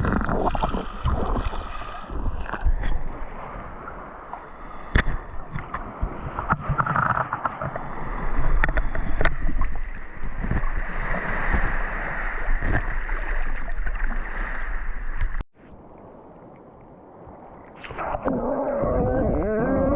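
Sea water sloshing and gurgling close to the microphone, with scattered sharp knocks. About three-quarters of the way through it cuts off abruptly, and near the end a sound with a wavering pitch comes in.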